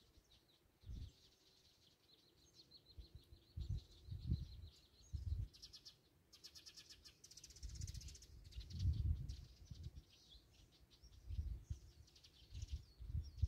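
Small songbirds chirping, with one rapid trill about halfway through. Irregular low rumbles and thumps sound underneath.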